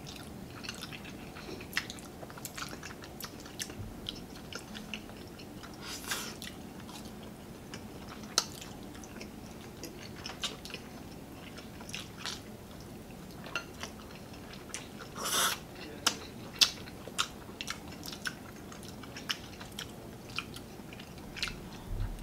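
Close-miked chewing and wet mouth sounds of two people eating spaghetti carbonara, with scattered sharp clicks and two longer slurps of noodles about six and fifteen seconds in.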